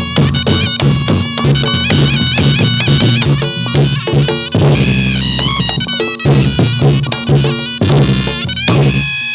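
Live Reog Ponorogo ensemble playing jathilan dance music: a shrill, wavering slompret (double-reed shawm) melody over quick hand-drum strokes and low held gong tones. Near the end the drums and low tones drop out, leaving the reed melody.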